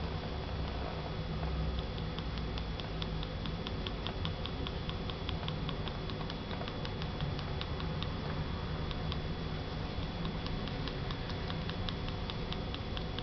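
Shiba Inu puppy's claws clicking lightly and quickly on a hard floor, roughly four or five ticks a second with short pauses, over a steady low hum.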